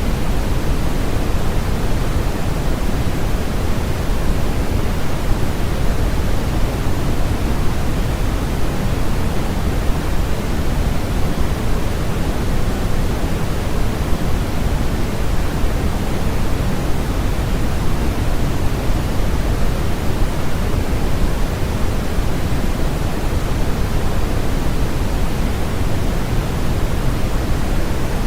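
Steady generated noise for sleep: a continuous, unchanging hiss with more weight in the low end than in the highs, closer to pink noise than to flat white noise.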